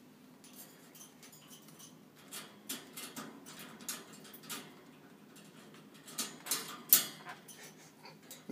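A sun conure's beak working a metal slide latch on its wire cage door to unlock it: scattered clicks and rattles from about two seconds in, with the loudest sharp clack near seven seconds.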